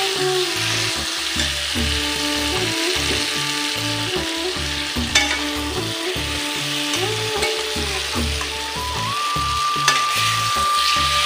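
Ridge gourd and potato pieces sizzling in hot oil in a metal wok as they are stirred with a spatula for the kasha step, with two sharp knocks of the spatula on the pan about five and ten seconds in. Soft background music with a steady beat runs underneath.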